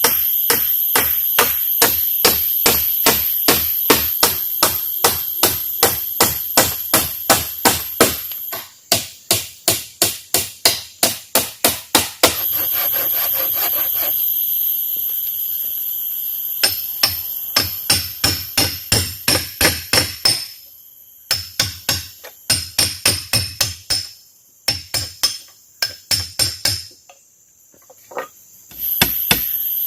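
Runs of steady hammering, about three blows a second, with several short pauses. Behind it, forest insects drone on a steady high pitch.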